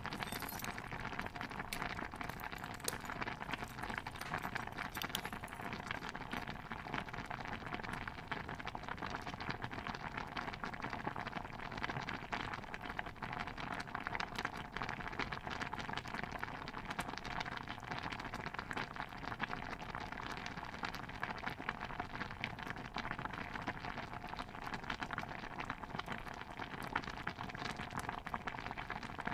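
Stew bubbling in a pot: a steady, dense patter of small pops that goes on without let-up.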